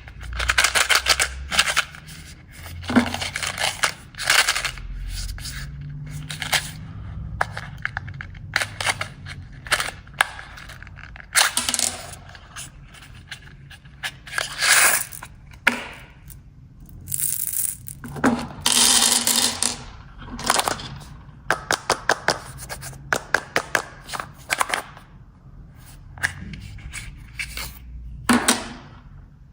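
Snack packets being crinkled and torn open and the snacks tipped out, with bursts of crackling and rapid clattering clicks.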